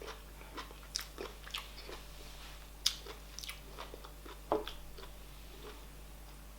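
Mouth sounds of someone eating soft fufu with oha soup: wet chewing and irregular lip smacks and clicks, a few louder than the rest, thinning out near the end.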